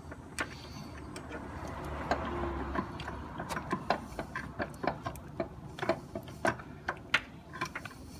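Light metallic clicking, irregular at about two to three clicks a second, from hand tools working the replacement AC compressor's mounting bolts. A brief rustle comes about two seconds in.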